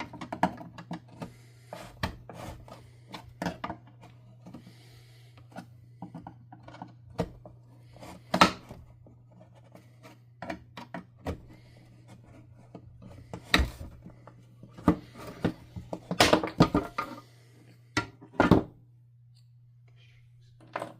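Plastic vacuum power-nozzle parts being handled and set down on a workbench: irregular clicks, knocks and rubbing, with a loud knock about eight seconds in and a cluster of them between about 13 and 19 seconds in. A faint steady low hum runs underneath.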